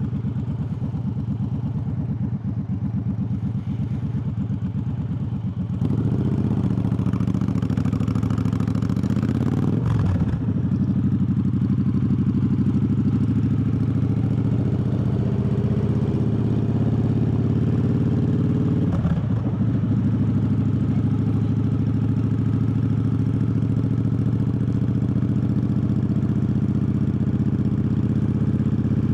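Triumph Bobber's parallel-twin engine running steadily under way. It gets louder about six seconds in, with two brief breaks in its note around ten and nineteen seconds in.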